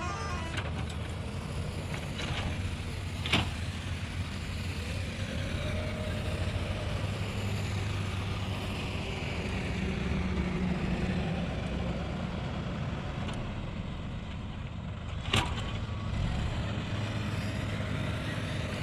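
Tractor's diesel engine running steadily while pulling a grader, with a sharp knock about three seconds in and another a few seconds before the end.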